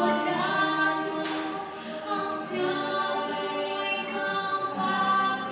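A slow song sung in Portuguese, several voices in harmony holding long notes, with little or no instrumental accompaniment.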